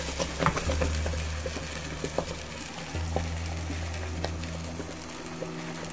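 Hot oil sizzling and crackling with scattered pops as cooked chana dal is poured into the tarka of fried garlic and onion. Background music with low bass notes plays underneath.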